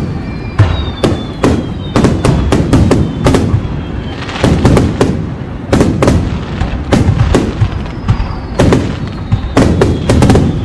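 Aerial firework shells bursting in rapid succession: a dense run of sharp bangs and crackle. Faint falling whistles come near the start and again about eight seconds in.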